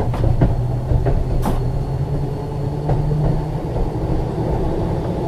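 Ex-Liverpool Corporation tram 869 running along the track: a steady low rumble and hum, with a few sharp clicks and knocks, the strongest about one and a half seconds in.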